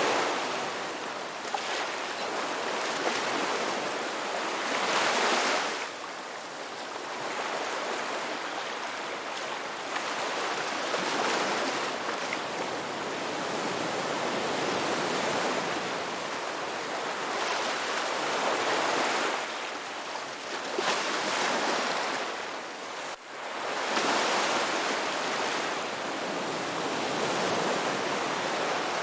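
Ocean waves breaking and washing on a rocky beach, surging in a swell every few seconds over a steady wash of surf.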